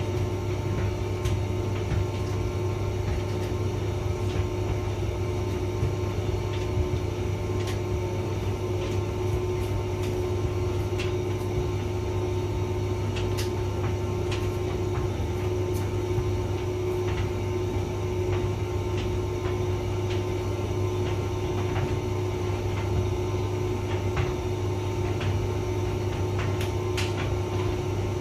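Hotpoint vented tumble dryer running: a steady motor and fan hum with a constant low drone and a couple of steady higher tones, and scattered light clicks.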